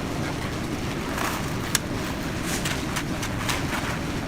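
Concrete mixer running with a steady low rumble, with short scrapes and clinks scattered throughout.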